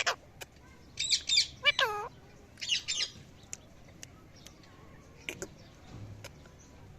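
A parrot calling: clusters of short, high calls in quick succession over the first three seconds, one of them sliding down in pitch, then only a few faint clicks.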